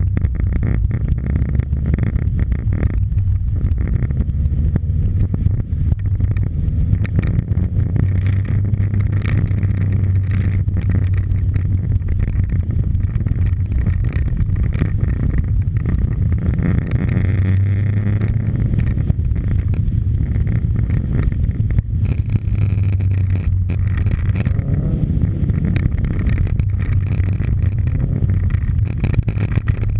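Subaru Impreza STI rally car's turbocharged flat-four engine and exhaust driven hard on snow, loud and continuous, the revs rising and falling as the car accelerates and shifts gear.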